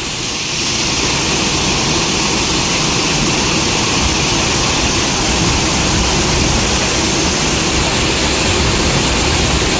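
Steady loud roar of a heavy hailstorm with rain, the downpour building over the first half second and then holding even.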